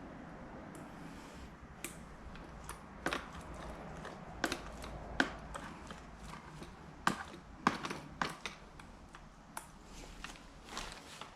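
Scattered sharp light clicks and knocks at irregular intervals, as objects are handled and set down, over a faint low hum.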